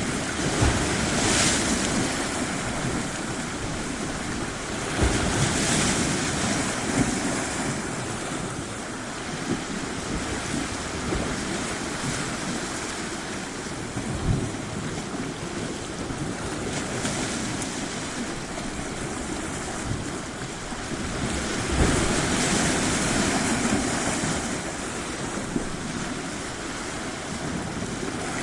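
Ocean surf washing onto a shore, a steady rush that swells louder as waves come in every few seconds.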